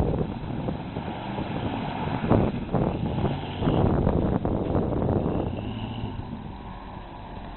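Dodge Dakota 4x4 pickup's engine running with rough noise, loudest in the first half, with a sharp peak a little over two seconds in. It then fades gradually over the last couple of seconds.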